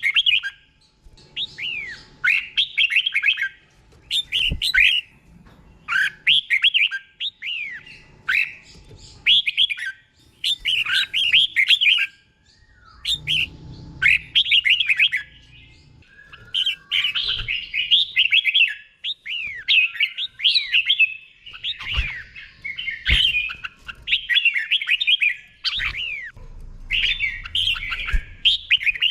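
Red-whiskered bulbul singing phrase after phrase of quick, down-slurring whistled notes with short pauses between them. This is the repeated, doubled ('beun') song style that keepers prize for competition birds. The phrases come more thickly in the second half.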